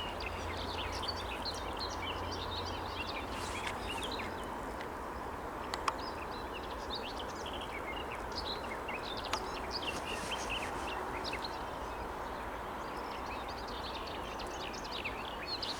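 An unidentified bird singing: quick, high-pitched chirps and short trills, repeated throughout over a steady background hiss. A single sharp click comes about six seconds in.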